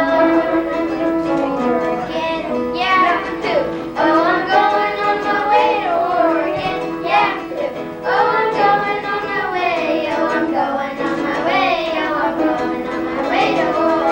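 Children singing a song together, with instrumental accompaniment under the voices.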